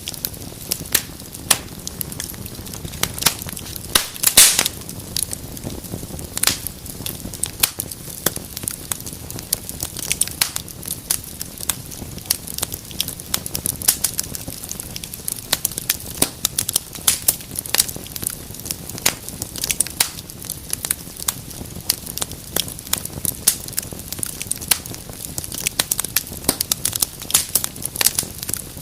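Fire in a fireplace crackling, with irregular sharp pops over a low steady rush of flame. A louder cluster of pops comes about four seconds in.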